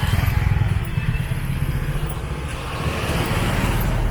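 A vehicle engine running loud, a rapid low putter.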